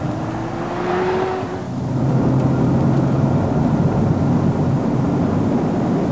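Ferrari F40's twin-turbocharged V8 engine being driven hard. Its pitch rises for the first second and a half, dips briefly near two seconds in, then pulls on steadily and loud.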